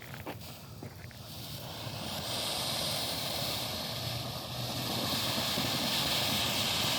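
Small fountain firework hissing as it sprays sparks. The hiss builds over the first two seconds, then holds steady.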